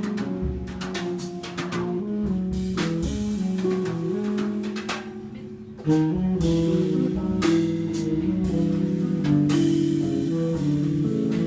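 Live small-group jazz from a tenor saxophone, guitar and drums trio, the guitar to the fore over drum kit. The music thins briefly, then the band comes back in louder about six seconds in.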